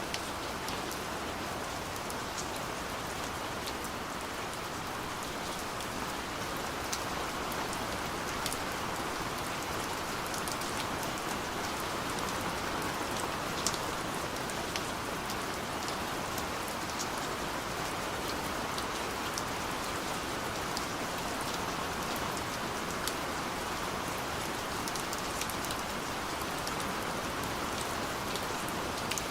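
Steady rain falling, a constant hiss with scattered individual drops pattering and ticking.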